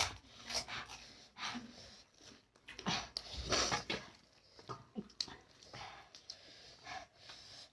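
Faint eating sounds: panipuri shells crunching and slurping, broken up by breathy puffs of air, loudest about three and a half seconds in.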